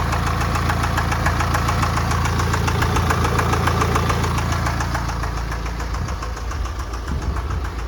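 Mini diesel engine running with a loud, fast, even knocking coming from inside the engine.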